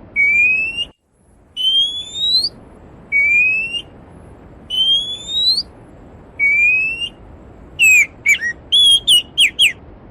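A songbird whistling a series of rising notes, one about every second and a half, then a quick run of short falling notes near the end, over the steady rush of a mountain stream. The stream noise cuts out for a moment about a second in.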